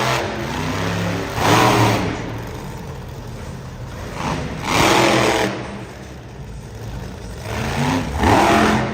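Monster truck engine revving hard in three bursts about three seconds apart, each rising and falling in pitch, running lower in between.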